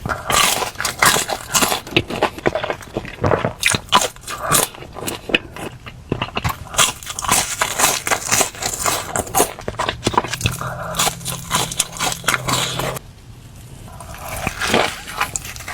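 Close-miked eating: crunchy bites and wet chewing, a dense run of crackling crunches that turns quieter about two seconds before the end.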